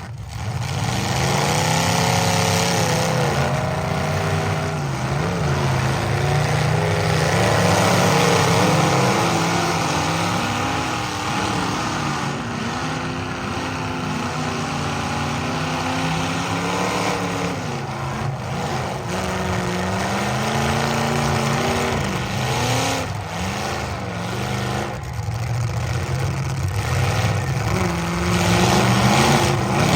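Several big-car demolition derby engines running and revving together, their pitches rising and falling unevenly and overlapping.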